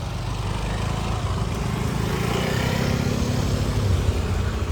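Motor scooter engine running close by, growing steadily louder as it approaches.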